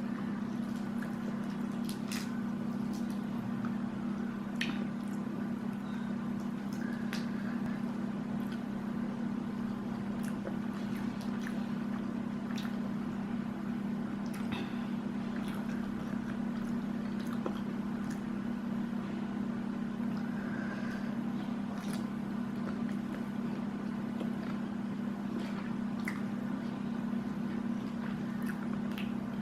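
Eating sounds: chewing and soft wet squishing with scattered small clicks, over a steady low hum.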